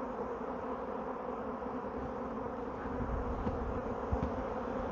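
A swarm of honey bees buzzing, many bees at once flying out of the hive in a dense, steady hum: the colony leaving at the start of a swarm.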